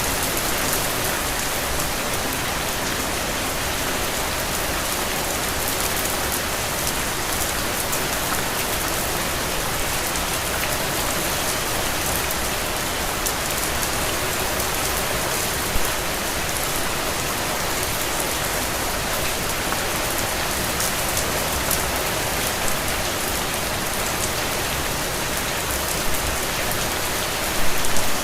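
Rain falling steadily, a dense patter of drops, with a few brief louder spatters: one about halfway through and a short cluster near the end.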